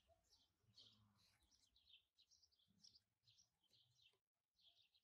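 Very faint small birds chirping: a quick run of short high calls, about three a second.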